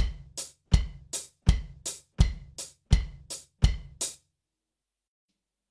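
Drum kit playing a steady quarter-note rock groove on hi-hat, bass drum and snare, with in-between bass drum strokes. It stops abruptly about four seconds in.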